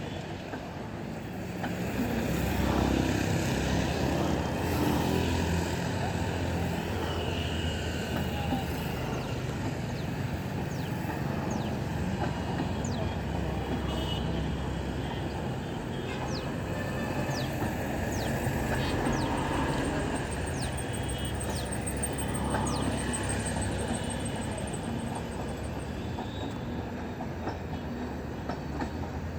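A passenger train rolling along the track into the station with a steady rumble, with a run of short, high squeals in the middle.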